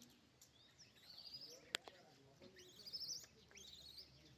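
Faint bird chirps: two short runs of quick, rising, trilled notes, with a single sharp click in between.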